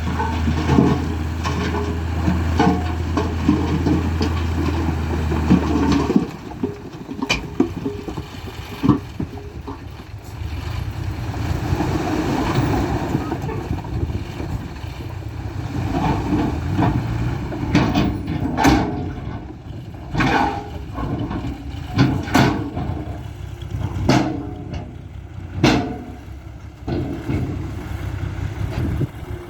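Fuso dump truck's diesel engine running with a steady low drone, which cuts off abruptly about six seconds in. Rougher, uneven noise follows, broken by a string of sharp knocks later on.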